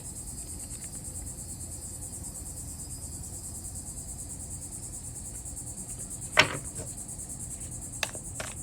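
Crickets chirping in a steady, high trill, with a sharp click about six seconds in and a couple of lighter clicks near the end.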